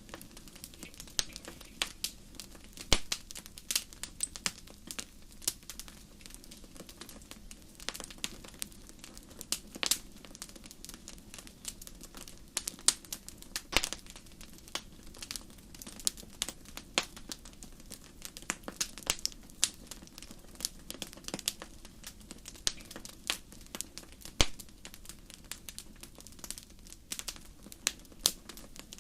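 Wood fire burning in a fireplace: logs crackling and popping with irregular sharp snaps, several a second, over a low steady hiss of the flames.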